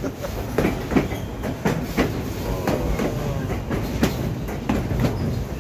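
Narrow-gauge White Pass and Yukon Route passenger car's wheels clacking over rail joints, irregular clacks about three a second over a steady low rumble of the moving train.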